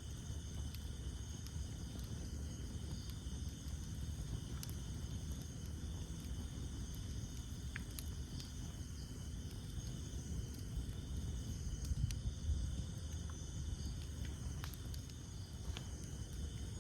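Campfire of burning wood with a low flame rumble and a few sharp crackles and pops scattered through, over a steady high chorus of night insects.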